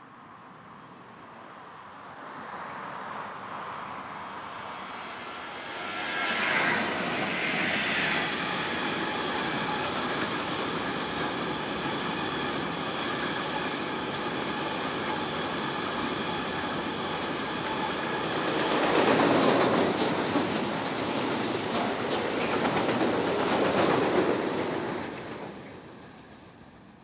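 A train approaching and passing at speed: wheels clattering over the rail joints with a steady whine above the rolling noise, loudest near the end before fading away.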